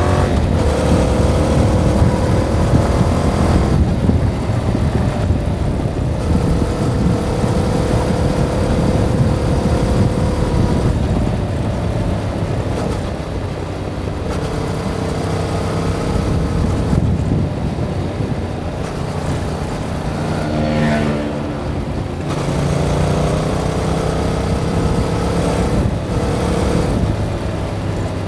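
A 2021 Yamaha MT-07's 689 cc parallel-twin engine, heard through its stock exhaust while being ridden. The revs rise and fall several times with throttle and gear changes.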